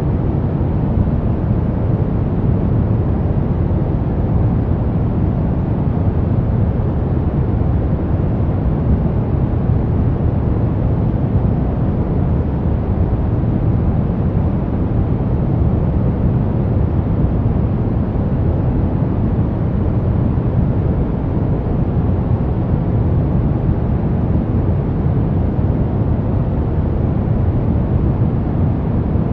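Brown noise: a steady, unchanging rush of noise, heaviest in the low end and fading toward the highs, with no events in it.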